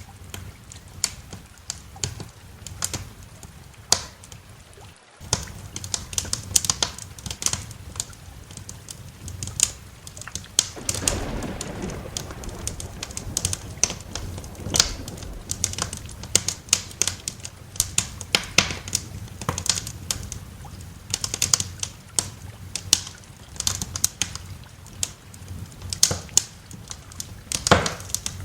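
Wood fire crackling, with irregular sharp pops and snaps over a steady low rumble. A broader rumble, typical of distant thunder, swells about eleven seconds in and fades over a couple of seconds. The sound cuts out for an instant about five seconds in.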